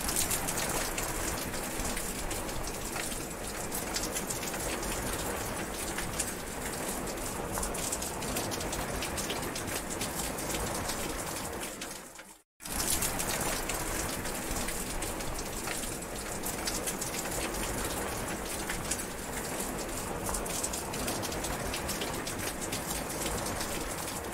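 Heavy rain falling steadily, a dense hiss of drops hitting surfaces. About halfway through it briefly fades to silence, then comes back at full level.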